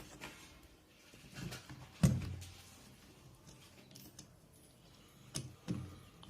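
A few separate handling knocks and clicks while two wires are reconnected on a fridge part; the loudest knock comes about two seconds in, with two more close together near the end.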